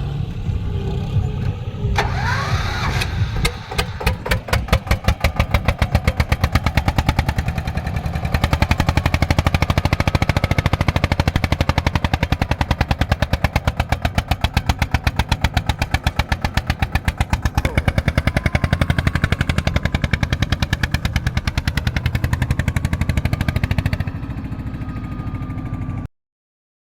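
Tractor diesel engine working hard, its exhaust beats picking up speed a few seconds in and then holding at a fast, even rhythm. The sound cuts off suddenly near the end.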